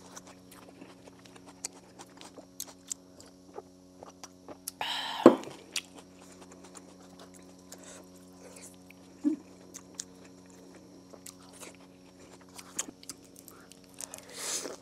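Close-miked chewing of a person eating falafel salad: many small wet mouth clicks and smacks, with a louder rushing sound about five seconds in and a short hummed note near nine seconds. Near the end comes another louder rush as she bites into a foil-wrapped shawarma.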